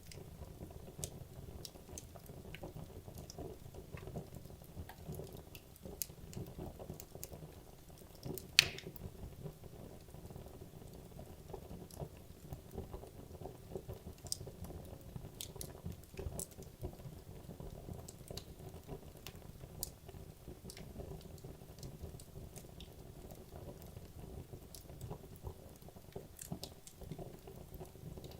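Wood logs burning in a fireplace: a low, steady flame rustle under scattered sharp crackles, with one loud pop about eight and a half seconds in.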